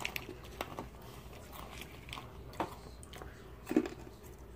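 Pretzels being chewed: scattered faint crunches, with a brief louder low sound near the end.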